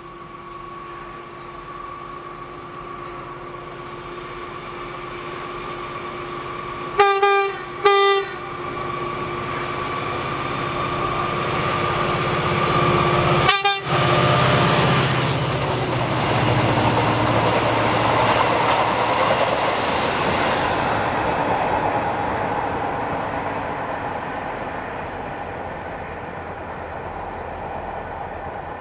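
Locomotive-hauled freight train approaching with a steady hum, sounding its horn in two short blasts about a quarter of the way in and once more briefly near the middle. The locomotive and its wagons then roll past with rising track noise, which slowly fades toward the end.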